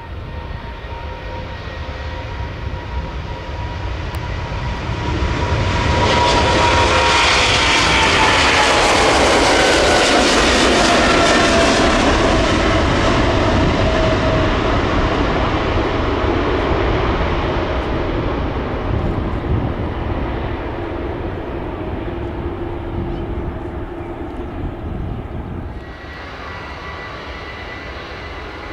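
Jet airliner's engines at takeoff power passing by: the engine noise swells to a loud peak, its whine slides down in pitch as the aircraft goes past, then fades away, with the sound dropping abruptly near the end.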